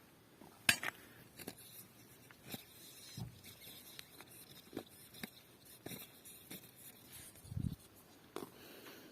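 Scattered light clicks and knocks at a low level, with a sharper click about a second in and a dull thump near the end.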